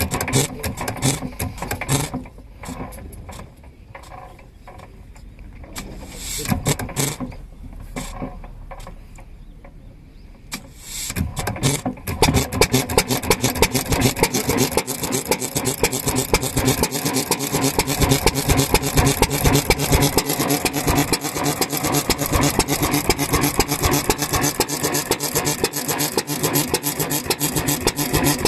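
A vintage 2 hp single-cylinder stationary engine being started: uneven knocks and clatter for the first dozen seconds, then it catches and runs steadily with a fast, even firing beat to the end.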